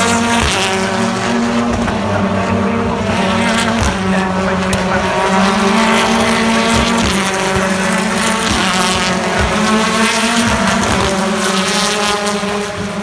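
British Touring Car Championship cars' turbocharged four-cylinder engines running at steady, moderate revs as the field circulates behind the safety car. The engine note shifts several times as cars pass one after another.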